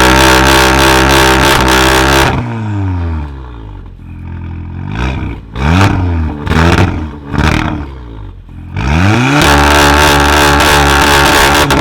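Tuned car engine revving loud through a sport exhaust. It is held at high revs, drops to idle, gives several quick blips, settles, then climbs steeply and holds high again.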